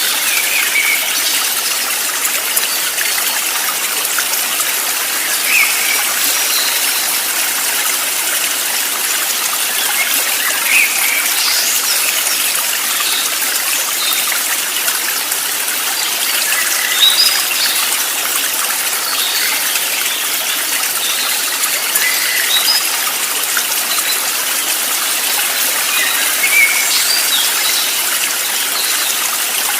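Flowing stream, a steady rush of water, with short high calls scattered over it every few seconds.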